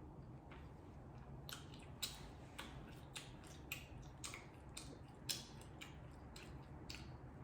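Close-miked chewing and mouth sounds of someone eating a carne asada burrito: irregular wet clicks and smacks, about one or two a second, starting about a second and a half in, over a low steady hum.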